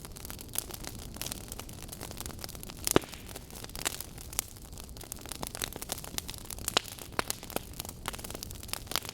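Burning wood logs crackling, with irregular sharp pops over a low, steady rush of flame. The loudest pop comes about three seconds in.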